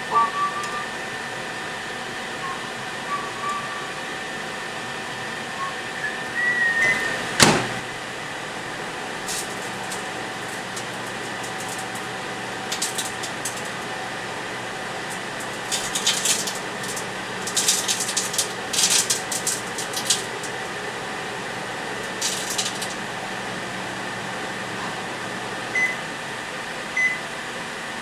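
Microwave oven running with a DVD inside arcing: a steady hum with sharp crackling and snapping sparks over it. There is one loud snap about seven seconds in, and dense bursts of crackle come between about sixteen and twenty seconds in.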